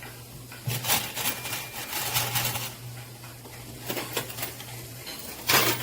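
Arcade coin pusher machine running with a steady low hum, with scattered metallic clicks and clinks of quarters around a second in, about four seconds in and a louder one near the end.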